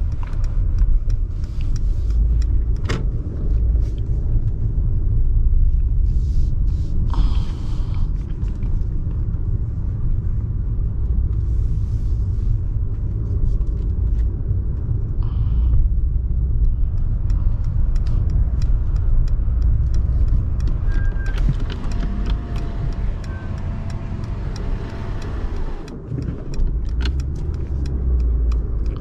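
Steady low rumble of a 2019 Mercedes-AMG S63's 4-litre twin-turbo V8 and road noise while driving, heard from inside the cabin, with a few faint clicks.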